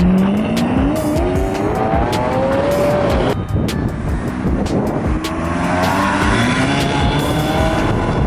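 A supercar accelerating hard, its engine rising in pitch through a gear, breaking off briefly about three seconds in at the shift, then climbing again. Many sharp pops run throughout.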